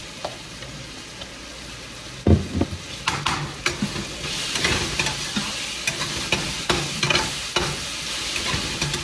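Chopped onion and garlic frying in oil with cumin in a pan, sizzling while a spoon stirs and clacks against the pan. A loud knock comes about two seconds in, and the sizzle grows louder from about halfway.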